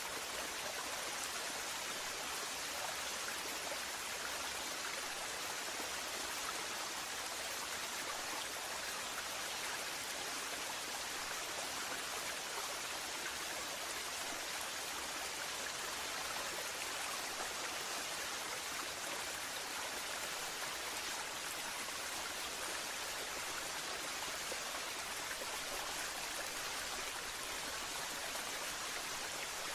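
Waterfall: steady, even rush of falling water, with no changes.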